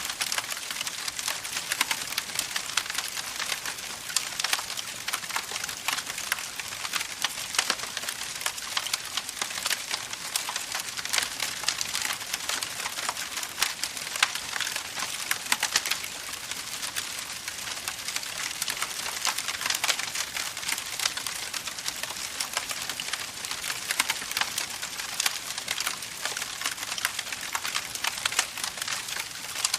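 Campfire crackling steadily, a dense run of small sharp pops and snaps over a soft hiss.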